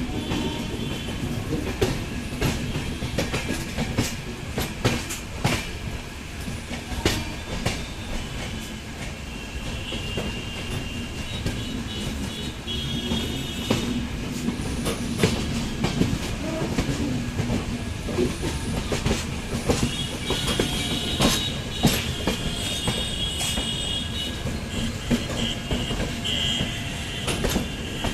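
Indian Railways train on the move: wheels clacking over rail joints under a steady rumble, with high-pitched wheel squeal in stretches about a third of the way in and again through most of the last third.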